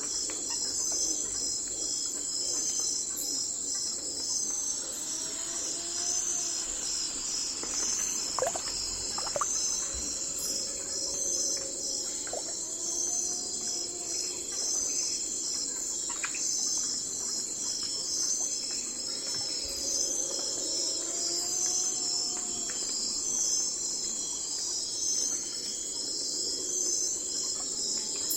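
Night forest ambience: a steady, dense chorus of crickets and other insects, pulsing high, with a lower call that rises and falls every few seconds and a few short chirps.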